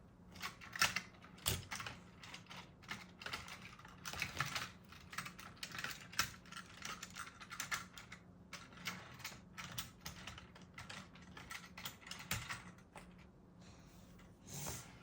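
Plastic Plarail toy train cars being handled, with many irregular light clicks and clatters of plastic pieces knocking together.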